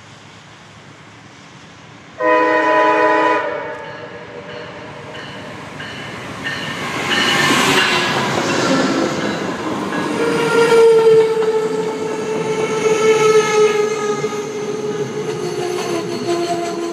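A CSX train's multi-note air horn blows one short, loud blast about two seconds in. The train then comes by, getting louder, its wheels running on the rails.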